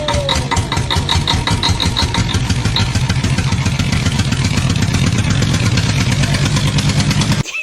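A motor running with a rapid, even pulse, loud and steady, cutting off suddenly near the end.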